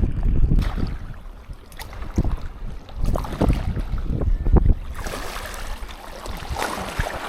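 Wind buffeting the microphone with surf washing on a sandy beach, the wash growing louder near the end, with scattered light clicks and taps.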